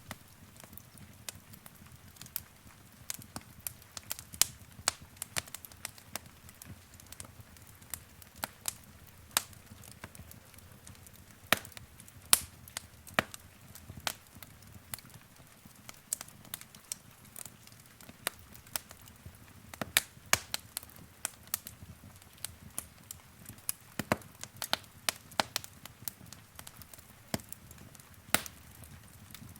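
Wood fire in a fireplace crackling: frequent sharp pops and snaps at irregular intervals over a faint low rumble.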